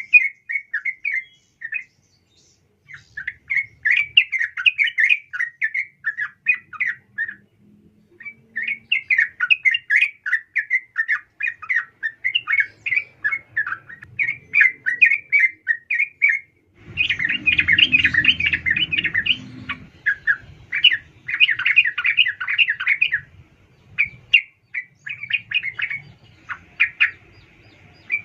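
Yellow-vented bulbul (trucukan), a female, calling in rapid, bubbly chattering phrases in bursts with brief pauses. The loudest, densest burst comes about two-thirds of the way through, with a low rumble beneath it.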